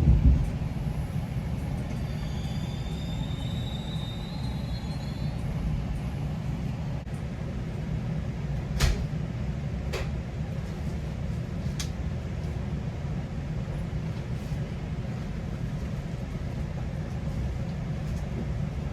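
GO Transit commuter train in motion, heard from on board: a steady low rumble of the wheels on the rails. There is a thump right at the start, a faint high squeal a couple of seconds in, and three sharp clicks later on.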